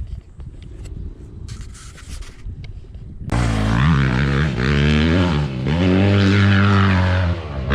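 Off-road vehicle engine running low, then suddenly much louder about three seconds in, revving up and down.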